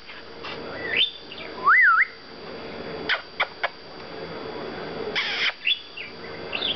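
Pet parakeet chattering with short chirps, a clear whistle that rises, falls and rises again about two seconds in, and a few sharp clicks.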